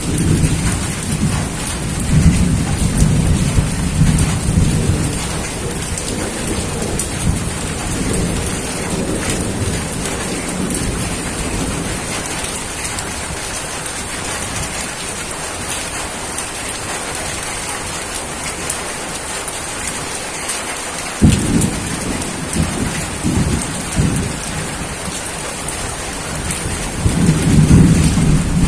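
Steady heavy rain falling, with rolls of thunder: long low rumbles in the first part and near the end, and a sharp thunderclap about two-thirds of the way through followed by more rumbling.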